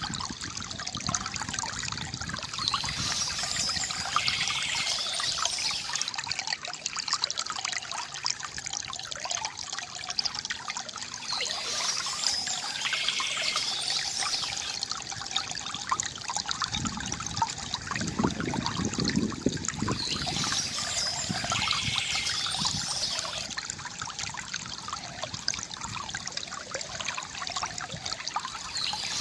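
Water trickling and gurgling from a bamboo fountain, a steady splashing, with birds chirping in bouts that come back about every nine seconds.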